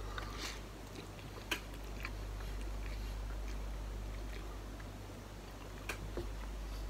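A person chewing a mouthful of instant ramen noodles, with a few short wet mouth clicks and smacks spread through the chewing.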